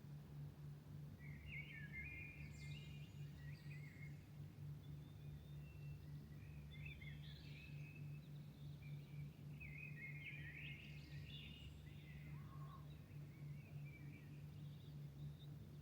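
Songbirds singing at dawn, faint, in three bursts of chirping phrases: about two seconds in, around seven seconds in, and around ten to twelve seconds in. A steady low city hum runs underneath.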